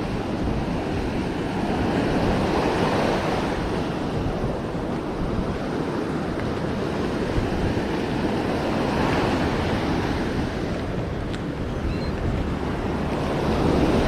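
Ocean surf washing ashore with wind blowing across the microphone, the noise swelling and easing a few times.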